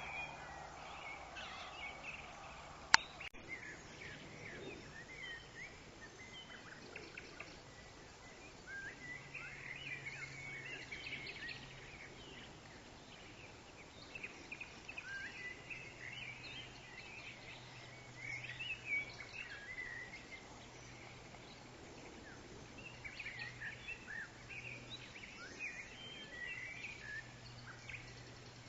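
Forest ambience with many birds chirping and whistling in short, overlapping calls, over a low steady hum. A single sharp click about three seconds in.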